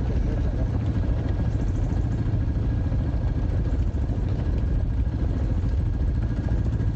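Motor vehicle engine running steadily with a fast, low pulse.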